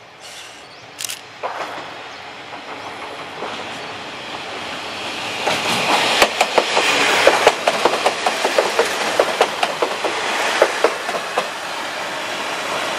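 Kominato Railway KiHa 200 diesel railcar passing close by, its running noise growing louder over the first few seconds. A rapid run of wheel clacks over the rail joints comes in the middle, then a steadier rumble as it moves away.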